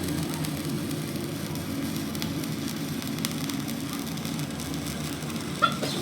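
Steady low running noise of workshop machinery with faint crackling, and one short sharp click or knock near the end.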